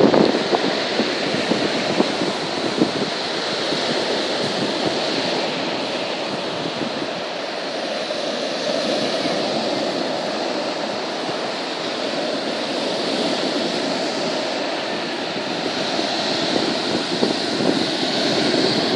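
Storm surf and wind: a steady, continuous wash of breaking waves with wind buffeting the microphone, swelling a little near the end.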